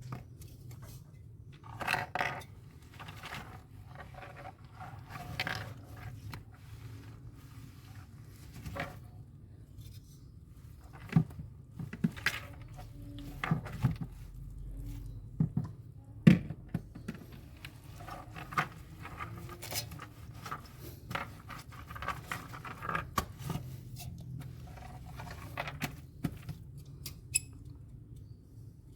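Irregular scraping, clicks and knocks of hand work on a refrigerator's parts, busiest through the middle, with one sharp knock a little past halfway.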